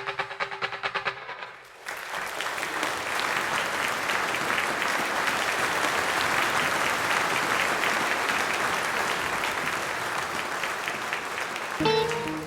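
Audience applauding for about ten seconds, beginning about two seconds in as the last electric guitar notes echo away; the guitar starts playing again near the end.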